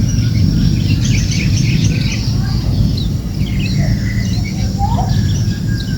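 Small birds chirping: many short, high calls and quick rising and falling notes, over a steady low rumble.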